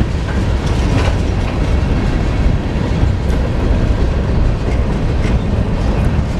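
Freight train cars rolling past close by: a steady low rumble of wheels on rail, with a few sharp clicks as wheels cross the rail joints.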